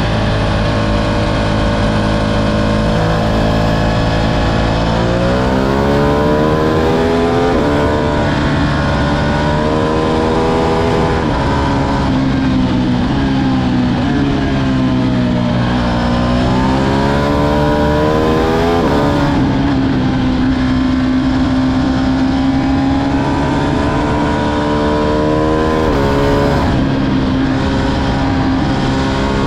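Ducati Streetfighter V2's 955 cc Superquadro V-twin engine running under way, its revs climbing about five seconds in, dipping and climbing again midway, holding steady for a while, then rising again near the end.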